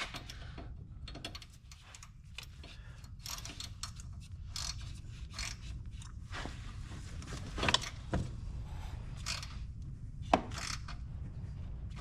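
Metal tool work: irregular clicks and clinks of tools and fasteners on metal, with a few sharper knocks in the second half, over a steady low hum.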